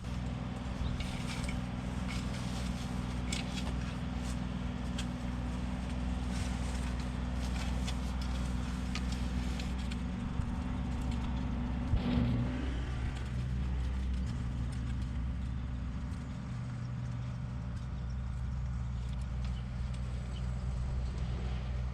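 An engine running steadily, with scattered clicks and knocks over it and a brief rise in level about halfway through.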